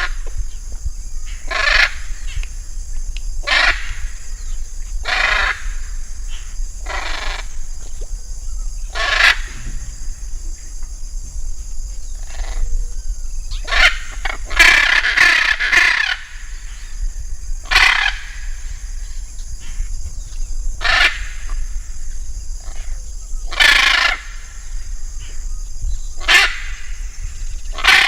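Bird calls repeated every second or two, each short and loud, with a longer run of calls about halfway through.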